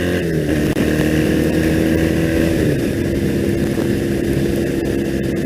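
2001 Triumph Bonneville's air-cooled parallel-twin engine running under way, with wind rush, heard through a helmet intercom microphone. The engine note drops a step about three seconds in and holds steady at the lower pitch.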